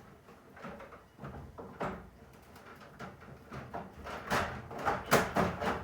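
Objects being handled and knocked about: irregular knocks, clatters and rustling, getting louder and busier towards the end, as if someone is rummaging for a part.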